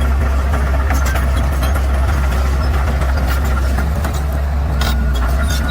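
Bulldozer's diesel engine running steadily with a strong low hum, with scattered sharp clicks and knocks over it.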